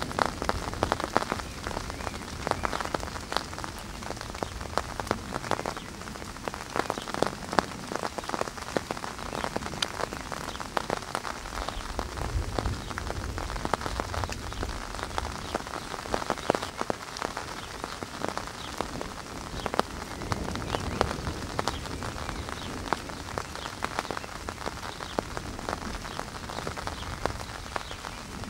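Heavy rain spattering close to the microphone, a dense patter of sharp drop ticks. A low rumble rises a little before the middle.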